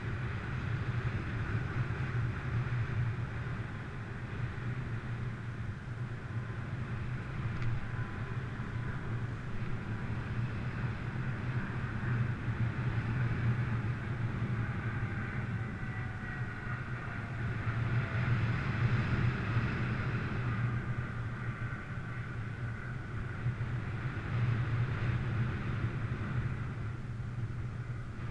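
Wind rushing over a GoPro action camera's microphone in flight under a paraglider in strong wind: a steady low rumble with a hiss that swells and eases. Faint tones glide in pitch about halfway through.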